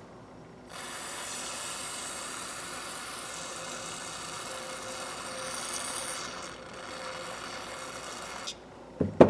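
A pressurised spray hisses steadily for about eight seconds, blasting rubbing-compound gunk out of the inside of a 1/4" ratchet head, then cuts off. A sharp knock follows near the end.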